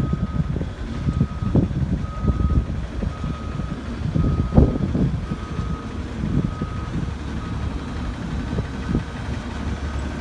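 Refuse truck's reversing alarm beeping about once a second over the low rumble of the truck's engine, with scattered knocks and thuds.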